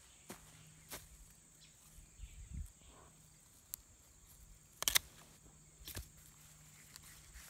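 Footsteps and rustling in garden vines, with a few sharp snaps or clicks, the loudest about five seconds in.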